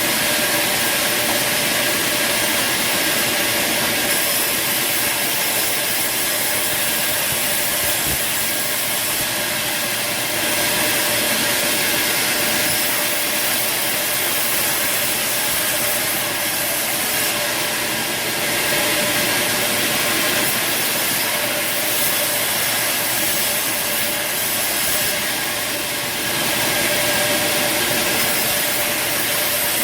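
Band sawmill running steadily, a continuous machine noise with a faint steady whine.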